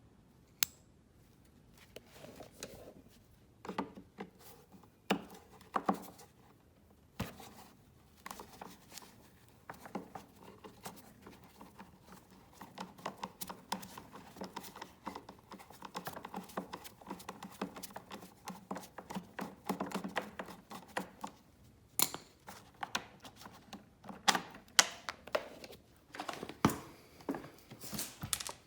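Hand work on a scrapped vacuum cleaner: scattered sharp clicks and knocks of parts and tools, with a denser stretch of small rattling clicks through the middle.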